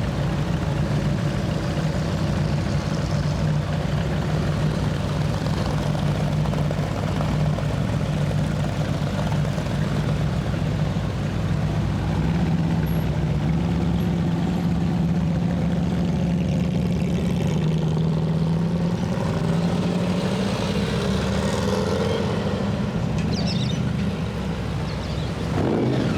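Car engine idling steadily close by, its pitch rising slightly about halfway through.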